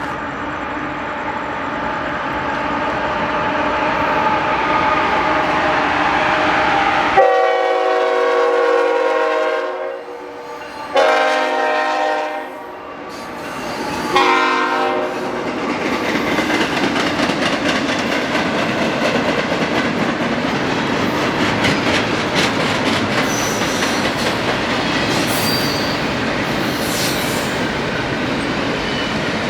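Union Pacific intermodal freight train approaching, its diesel locomotive growing louder, then sounding its air horn in three blasts: a long one, a shorter one and a short one. The train then rolls past with steady wheel clatter over the rail joints.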